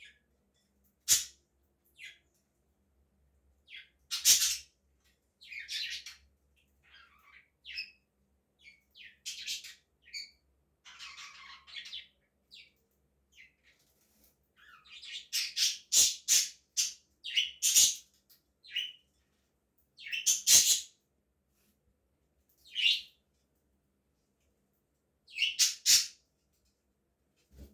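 Budgerigars chirping and calling in irregular, scattered bursts, with a few short loud calls and a quick run of chirps about sixteen seconds in.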